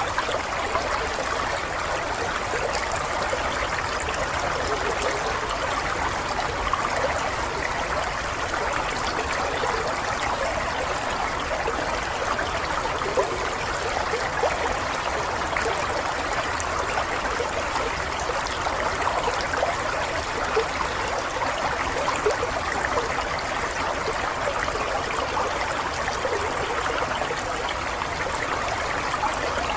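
Running water flowing steadily, a stream-like burble with small splashes and gurgles that never lets up.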